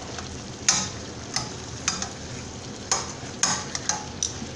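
Chicken thigh pieces sizzling in oil in a skillet, with a utensil stirring and knocking against the pan about six times.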